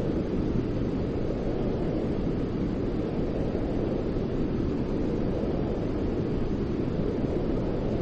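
Steady, deep white-noise track for soothing a baby to sleep: an even, unbroken rumbling hiss with the weight in the low range.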